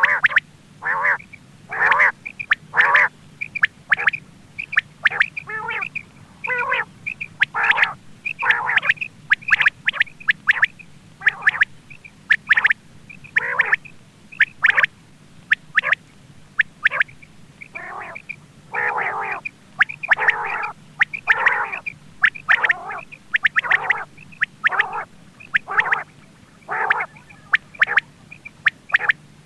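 Quail calling, a recording of the kind used to lure quail for hunting: short calls repeated one to two times a second throughout.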